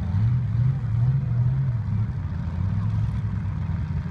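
Demolition derby truck engines running and revving in a low rumble. The pitch rises and falls over the first two seconds, then settles steadier and lower.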